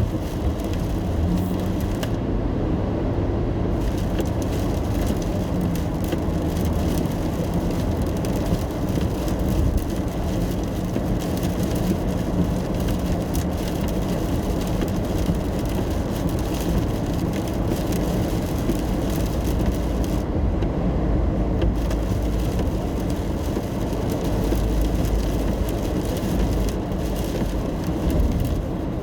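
Car interior while driving in the rain: a steady low road and engine rumble under a hiss of tyres on wet pavement and rain. The high hiss drops away briefly twice, about two seconds in and again about twenty seconds in.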